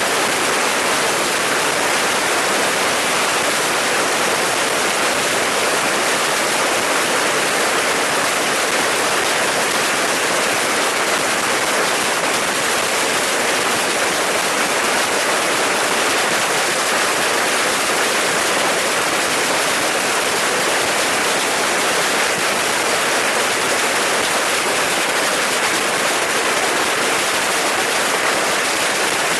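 A dense, continuous barrage of bottle rockets and firecrackers firing from a beehive rocket fortress, so many at once that they merge into one steady hissing crackle at a constant high level.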